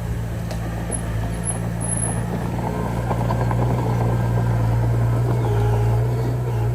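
Diesel engine of heavy earthmoving machinery running steadily, a low hum with a dense rattle over it that gets a little louder after a couple of seconds.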